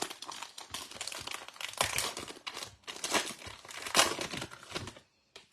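Wrapper of a pack of trading cards crinkling as it is torn open and handled, with louder crackles about two and four seconds in, stopping just before the end.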